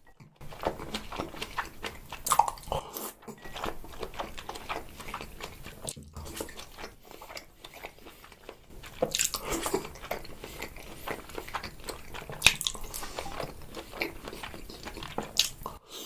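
Close-miked eating: biting and chewing salmon sushi and noodles, a dense run of mouth clicks and smacks with a few sharper, louder bites along the way.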